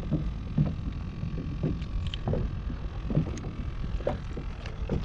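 Irregular light knocks and bumps on a fishing kayak as gear is handled, over a low steady rumble.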